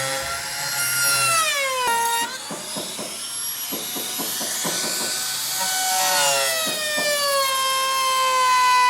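Electric power tool cutting wood: its motor whines high and the pitch sags as it bites into the wood. In the middle the whine gives way to rough, rasping cutting noise, then it returns and slowly falls in pitch again.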